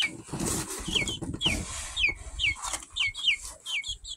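Baby chicks peeping: a steady run of short, high cheeps that each slide downward in pitch, two or three a second.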